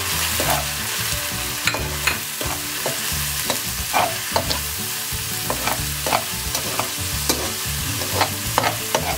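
Sliced onions, bay leaves and ginger-garlic paste frying in hot oil in a nonstick wok, sizzling steadily. A metal spatula stirs through them, scraping and tapping against the pan at irregular intervals.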